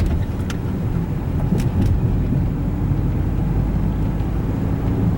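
Fiat Linea running on the road: a steady low rumble of engine and tyres, with a few faint clicks about half a second and a second and a half in.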